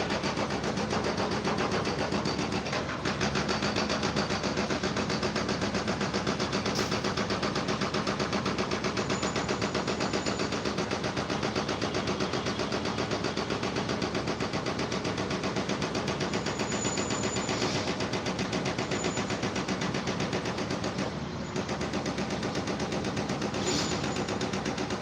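A fast, steady mechanical rattle of rapid repeated strokes, unbroken throughout, with a low hum underneath and a short dip near the end, most likely construction machinery working at an underpass site.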